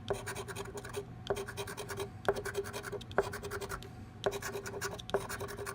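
A paper lottery scratch-off ticket being scratched in quick, repeated strokes, coming in short bursts of about a second with brief pauses between, as the latex coating is rubbed off to uncover the play spots.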